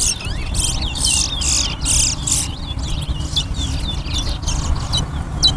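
Towa towa finches singing: a quick, continuous run of short, high chirping notes over a low background rumble.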